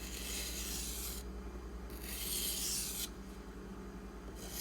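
Steel knife blade being drawn across a 600-grit Pride waterstone, a gritty scraping hiss in long strokes of about a second each with short pauses between, the third stroke starting near the end. A low steady hum runs underneath.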